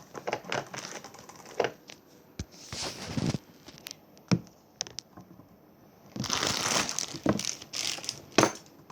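Crinkling, rustling handling noise with scattered sharp clicks; the longest and loudest rustle comes about six seconds in.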